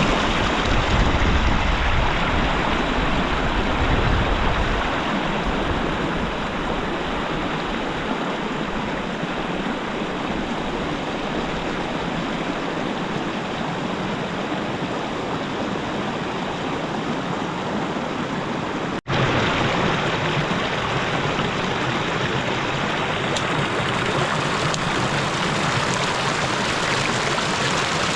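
Steady rushing of flowing river water. It breaks off for an instant about two-thirds of the way through and resumes.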